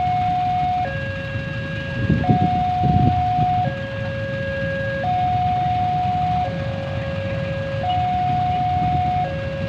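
Railway level-crossing warning alarm sounding an electronic two-tone signal, switching between a higher and a lower tone about every one and a half seconds: the sign that a train is approaching and the barriers are down. A low rumble swells underneath about two to three seconds in.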